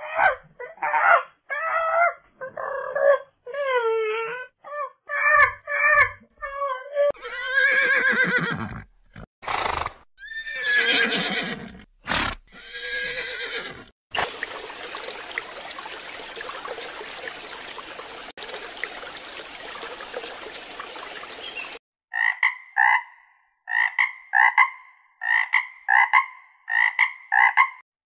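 A run of animal sounds one after another: several seconds of pitched, wavering animal calls; a horse neighing three times, each call falling in pitch; a steady rushing noise lasting about eight seconds; then a frog croaking in an even rhythm of about two croaks a second.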